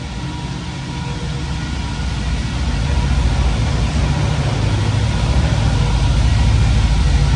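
The aluminum 6.0 LS V8 of an LS-swapped 1965 Chevy Nova, with a Holley high-ram intake, running at low speed with a deep, pulsing exhaust rumble that grows gradually louder.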